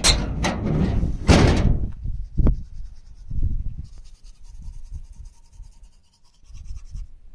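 Handling noises: a loud rustle for about two seconds, then a single sharp knock, then softer bumps and rummaging.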